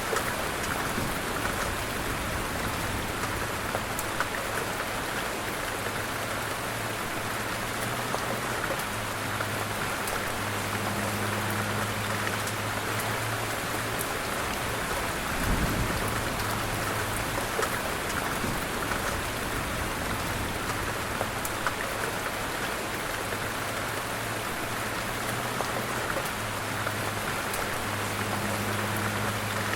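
Light rain falling steadily, with scattered individual drops ticking. A low hum comes and goes underneath, and there is one soft low thump about halfway through.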